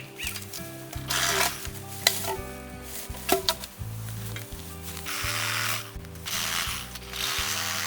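Dry bamboo rustling and scraping in several bursts as fallen bamboo is moved, with a couple of sharp knocks. Background music plays under it.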